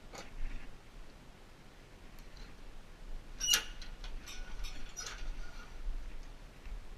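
Scattered light clicks and short scrapes of hands working a new pull rope and its knot at a lawn mower's recoil starter handle, with a sharper cluster of clicks a little past halfway.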